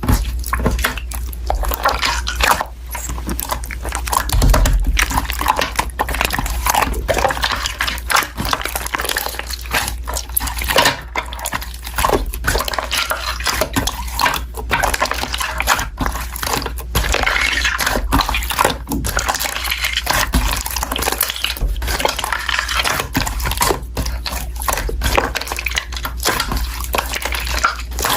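Continuous wet, sticky clicking and squelching, a dense run of small crackles and pops without pause.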